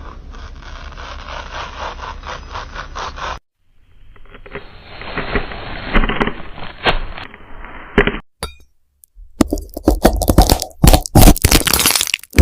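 A knife cutting through something crisp, in three separate clips that start and stop abruptly. The first two are rapid, repeated scraping slicing strokes. From about nine seconds in comes a run of loud, sharp cracks and snaps.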